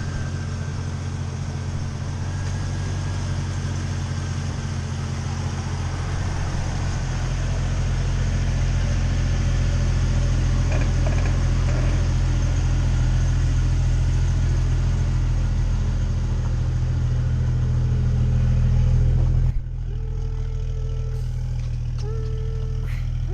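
Jeep Cherokee XJ engine running steadily on the road during a test drive, with a low drone that slowly builds. The drone drops off abruptly about twenty seconds in and goes on at a lower level.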